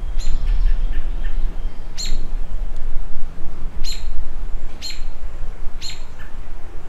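A bird chirping repeatedly: about five short, sharp, high chirps, one every second or two, over a low steady rumble.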